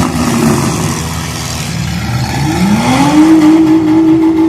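Demolition derby car engines running. About halfway through, one engine revs up sharply and is held at high revs.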